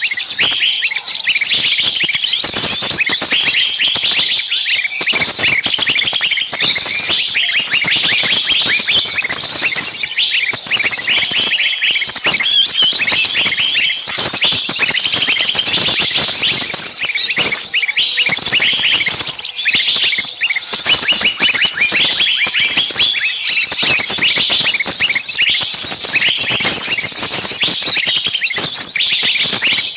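A dense, unbroken chorus of many small songbirds chirping and giving shrill, agitated calls over one another. It is a bird-lure recording of noisy, screaming small-bird calls, the sound of birds in distress that draws other small birds in.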